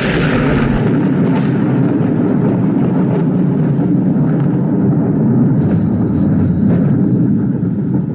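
The tail of a thunderclap fades in the first half-second, followed by a long, steady low rumble of rolling thunder.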